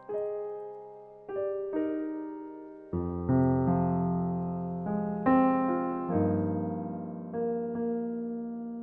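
Slow piano music: single notes and chords struck and left to fade, with low bass notes joining about three seconds in.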